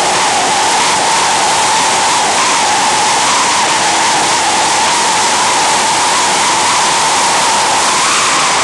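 Speedboat running fast: its engine held at a high, steady pitch that wavers slightly, under a loud, constant rushing noise.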